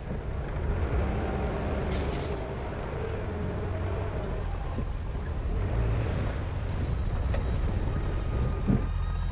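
Heavy diesel engine of earthmoving equipment running steadily with a deep low rumble, with a few short knocks near the end.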